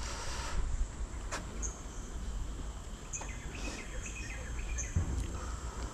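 Tropical forest ambience: a steady high-pitched insect drone with short bird chirps scattered through it, over a low rumble.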